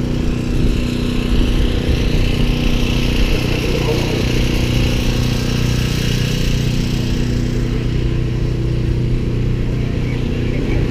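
Drag race car's engine idling steadily, with voices of people around it.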